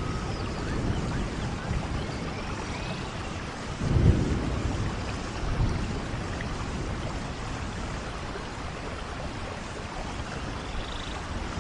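Steady rainfall, with a low rumble of thunder swelling about four seconds in and a weaker one shortly after.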